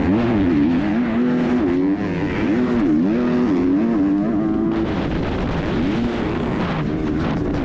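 A 250 cc four-stroke Kawasaki motocross bike's engine, heard close up from the bike. It revs up and down again and again as the throttle is worked between gear changes, and holds one note for about a second near the middle.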